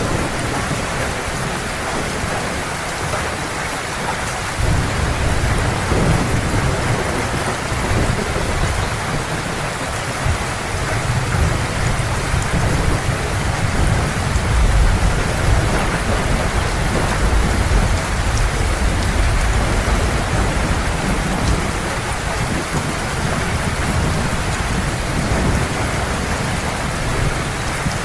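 Heavy rain falling steadily on surfaces, with a long low roll of distant thunder swelling in about four seconds in and fading away after the middle.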